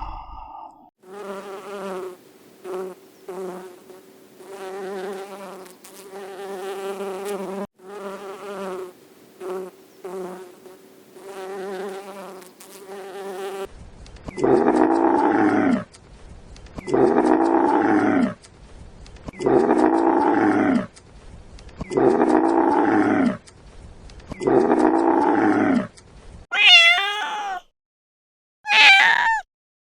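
A series of animal calls. First comes a wavering, buzzy drone cut into short and long pieces. About halfway through, five loud drawn-out calls follow at even spacing, and near the end there are two short high-pitched calls.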